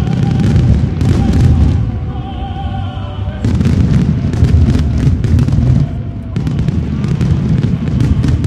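Fireworks display: a continuous rumble of booming shell bursts and sharp crackles, mixed with the show's synchronized music. The music holds a wavering tone over the first few seconds. About three and a half seconds in, a dense run of crackling bursts takes over.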